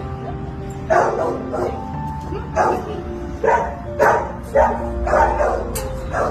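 A dog barking in short, loud barks, about eight of them at uneven intervals starting about a second in. Background music with long held notes plays underneath.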